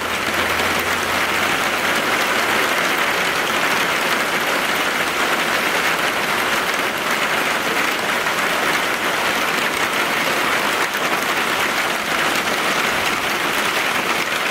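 Heavy rain pouring down in a steady, dense hiss, drumming close on an umbrella overhead.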